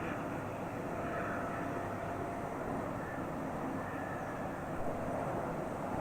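Jet airliner engines running steadily, a constant rush with a faint whine over it.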